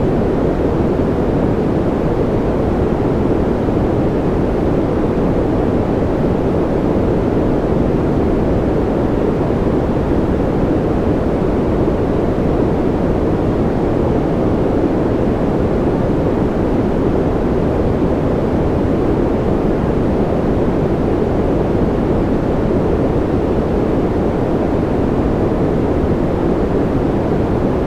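Steady sleep-noise track of continuous deep, rushing noise with little high hiss, unchanging throughout.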